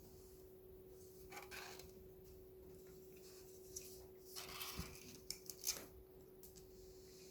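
Faint scratching and small clicks from cats working at a cardboard toilet-roll treat toy, in two short bouts with a few sharper clicks in the second, over a steady low hum.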